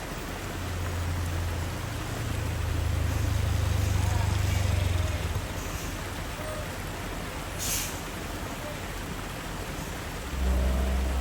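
Heavy truck engines rumbling at low revs in stalled hill traffic. A short hiss of air, like a truck's air brake releasing, comes about eight seconds in, and another engine rumbles up loudly near the end.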